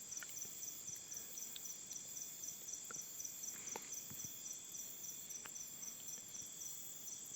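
Insects chirring: a steady high-pitched drone with a regular pulsing chirp about three times a second, and a few faint ticks.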